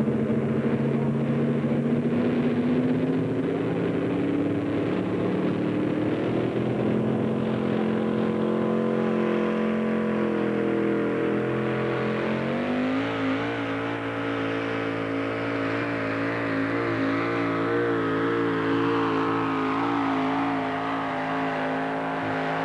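A 4x4 pulling truck's engine running hard at high revs under load as it drags the sled. Its pitch climbs slowly, jumps higher about halfway through, then holds steady.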